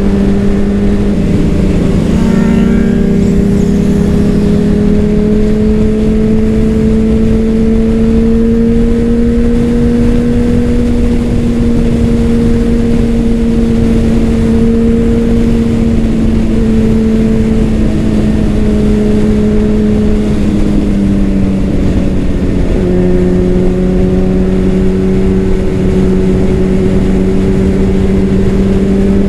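Honda CBR600RR inline-four with a Leo Vince exhaust running at steady cruising revs, the engine note rising slowly, then easing off about twenty seconds in before holding steady again, over wind rush.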